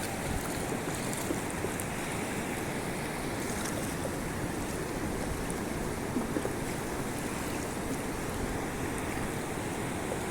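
Steady rush of fast-flowing river water at a waterfall, a strong current.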